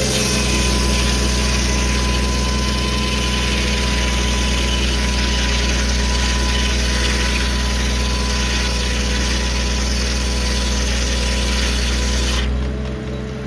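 1952 Farmall H's four-cylinder engine running steadily, driving a Corley circular sawmill whose blade is cutting through a log. The blade's loud hiss, with a steady whine in it, cuts off sharply near the end as the cut finishes.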